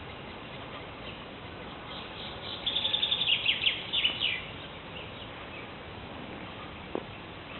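A songbird singing one phrase of rapid high notes, lasting about two seconds, over a steady background hiss. A single short click comes near the end.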